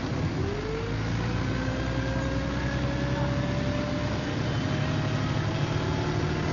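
MCW Metrobus double-decker bus pulling away, with a whine that rises steadily in pitch for about four seconds over the running engine.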